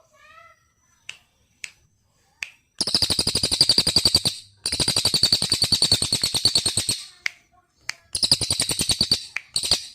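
A songbird singing: a few short chirps, then three loud, fast rattling trills, the middle one the longest at over two seconds.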